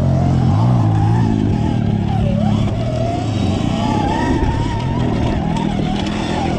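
Petrol dirt bike engines running close by, with a steady low note and a higher note that rises and falls as the throttle is worked.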